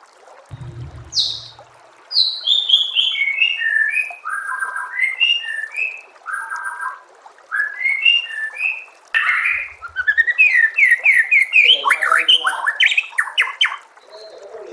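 A songbird singing a loud, varied song of clear whistled phrases: descending runs of notes, quick repeated notes and fast trills, with short gaps between phrases. This is tutor song of the kind played to train white-rumped shamas. A brief low hum sounds about half a second in.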